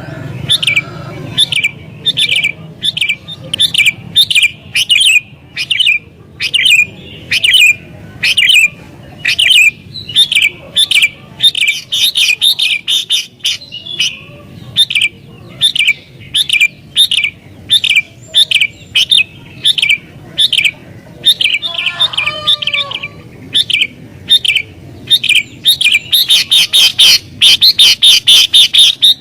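Sooty-headed bulbul (kutilang) calling loudly and without pause: a rapid run of short, sharp chirping notes that crowd into a dense chatter near the end. It is the agitated, rival-challenging calling used to lure wild bulbuls.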